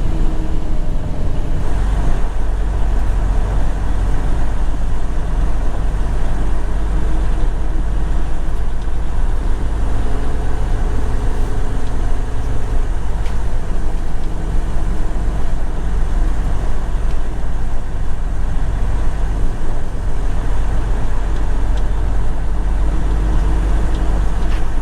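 Semi-truck diesel engine running steadily, a low rumble heard from inside the cab.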